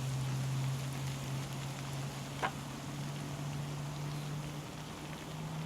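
Salmon sizzling in butter in a frying pan, a steady crackle, over a low steady hum that steps up slightly in pitch near the end. One sharp click about two and a half seconds in.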